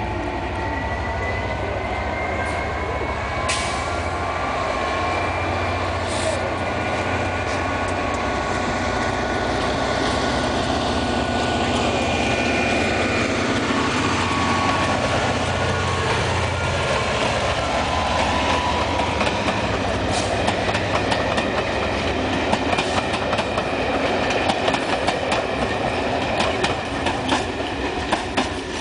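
Class 67 diesel locomotives pulling a train away, their two-stroke V12 engines running under load, with high whines that slide slowly in pitch. From about twenty seconds in, the wheels click quickly over the rail joints, with some squeal as the coaches pass.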